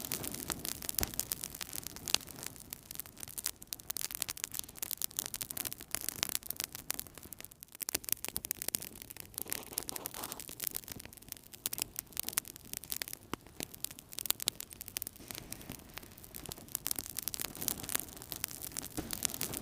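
Wood fire burning in a fireplace, crackling with dense, irregular small pops and snaps over a soft rush of flame.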